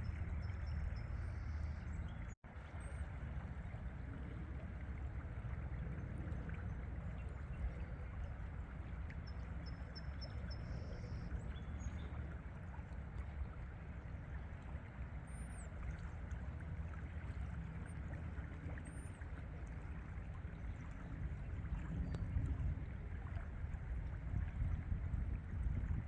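Steady rush of river water with a deep rumble, and a few faint high bird chirps: short trills about a second in and again around ten seconds, then two single chirps later on. The sound cuts out for an instant a couple of seconds in.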